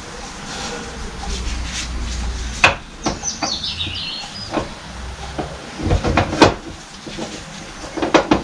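Hydraulic pump parts being handled and shifted on a workbench: a run of separate knocks and clunks, the first sharp one about a third of the way in and a cluster near the end. A low rumble runs under the first few seconds, and a short falling high chirp or squeak follows the first knock.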